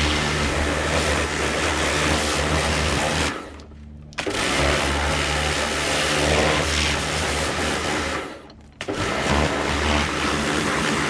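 Electric pressure washer running and spraying, a steady motor hum under a hiss of water, cutting out briefly twice.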